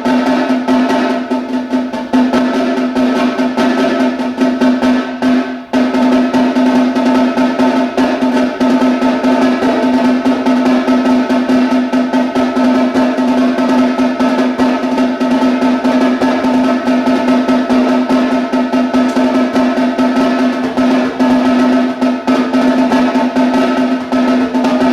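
Solo snare drum played with sticks in fast, dense strokes and rolls, with a brief break about five and a half seconds in.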